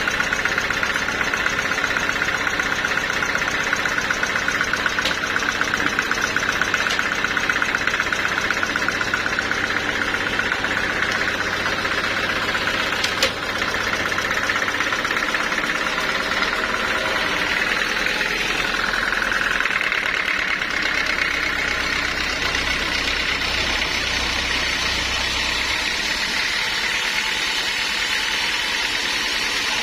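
Sawmill machinery running steadily with an engine-like drone, with a single sharp click about 13 seconds in.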